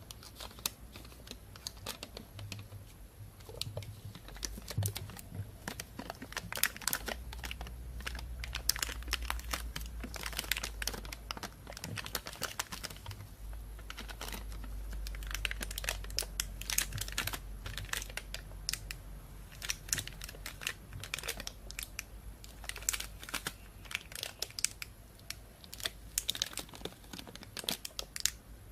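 Thin plastic bag crinkling and rustling, dense irregular crackles with a low handling rumble beneath.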